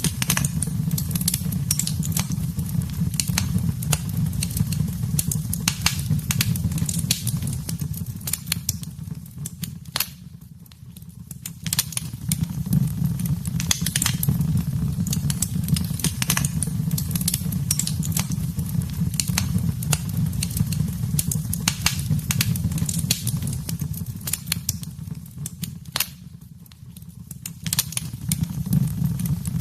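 Wood fire crackling and popping in a fireplace: dense, irregular sharp snaps over a steady low rumble. The crackling fades out briefly twice, about ten seconds in and again near the end, then comes back.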